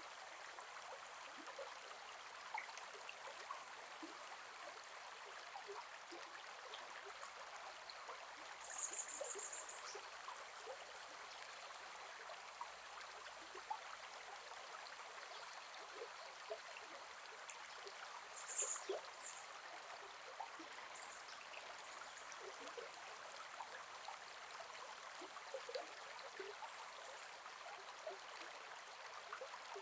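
A gentle forest river flowing steadily, a soft even rush with many small plops and trickles. Two brief high-pitched sounds stand out, about a third of the way in and again past the middle.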